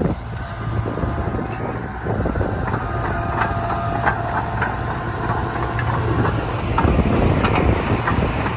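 Heavy diesel machinery running with a steady low drone. Repeated short, sharp metallic squeaks and clicks start about two and a half seconds in.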